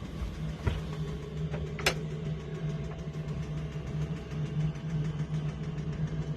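Sailing yacht's inboard engine running steadily with a constant low hum, and two brief knocks about a second apart early on.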